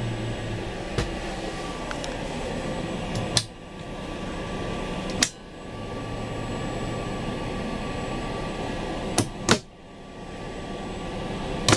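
Steady rushing of the limousine cabin's overhead air vents with a low hum, broken by a few sharp clicks, after which the noise briefly dips and builds back up.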